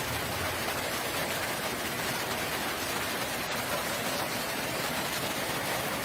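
Steady rain falling, an even hiss of rainfall.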